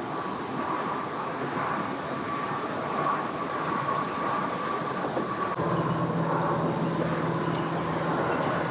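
Motor engines running steadily: a higher whine for the first part, then a lower, steady engine hum that comes in about five and a half seconds in and keeps running.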